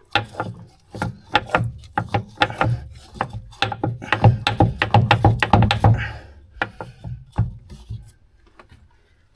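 Grease gun being pumped against a clogged Zerk fitting that is not yet taking grease: a quick run of clicks and knocks that stops about eight seconds in.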